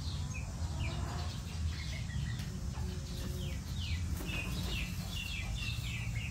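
Small birds chirping: a run of short, quick chirps, each falling in pitch, coming thicker in the second half. A steady low rumble runs underneath.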